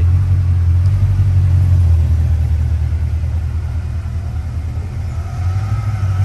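Mercedes-AMG C63 coupé's 6.2-litre V8 idling with a deep, steady rumble that eases a little near the end.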